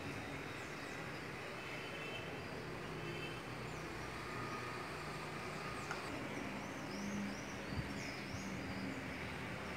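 Small birds chirping in short, quick high notes from about halfway through, over a steady background hum.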